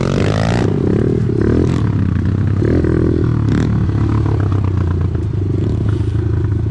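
Off-road vehicle engine running on a trail ride, revving up and down several times in the first few seconds, then holding a steadier note.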